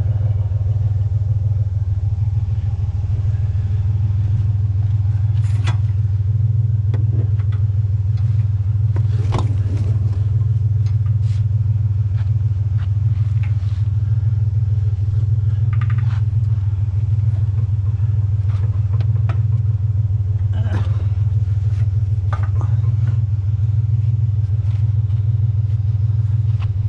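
Truck engine running with a steady low rumble, with a few faint clicks and knocks scattered through it.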